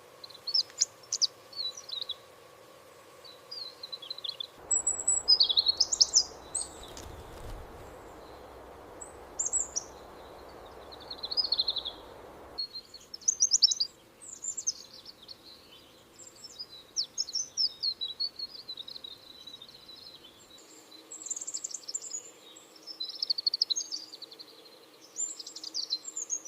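Small bird chirping and twittering: many short, high calls in quick runs throughout. A steady rushing noise runs underneath from about five seconds in to about twelve.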